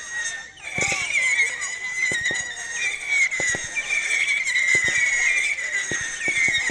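Fireworks going off: a continuous high wavering whistle from whistling effects, with many sharp cracks and bangs scattered through it.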